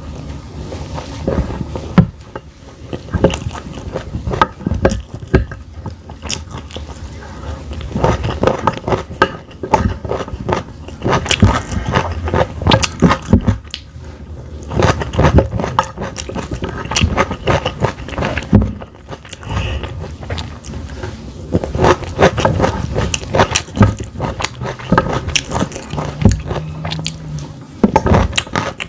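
Close-miked eating: a person biting and chewing food, with many crisp irregular clicks and crunches and some scraping.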